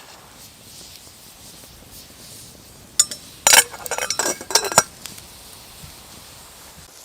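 Metal camping cookware being handled: a pot and its gear clink and rattle in a quick cluster of ringing strikes for about two seconds, starting about three seconds in.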